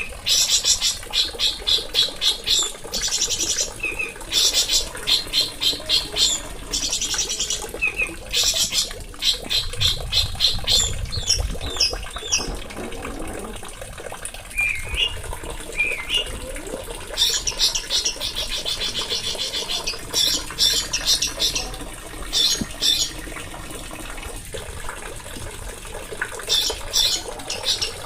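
A small songbird singing: fast, rattling trilled phrases about a second long, repeated over and over with short gaps, and a few brief rising whistled notes in between.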